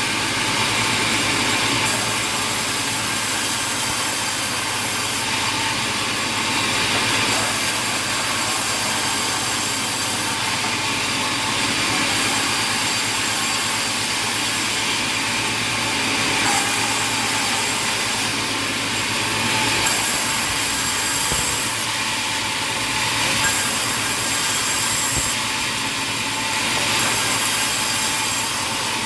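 Sawmill machinery running loud and steady, with a saw cutting wood. The high hiss shifts every couple of seconds.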